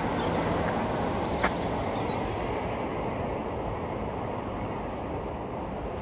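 Road traffic passing on a busy main road: a steady rush of tyres and engines that slowly fades away.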